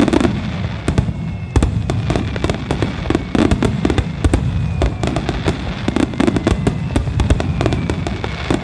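A huge star mine fireworks finale: a dense barrage of shell bursts, many booms and cracks a second without a break, over a continuous low rumble.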